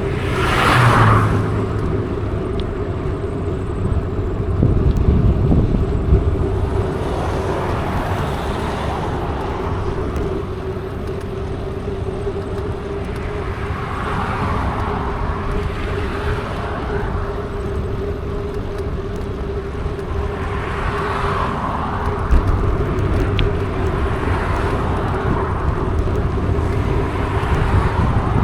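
Mountain bike riding along a road, a steady hum from the rolling bike under a wash of road and wind noise, with passing motor traffic swelling and fading a few times.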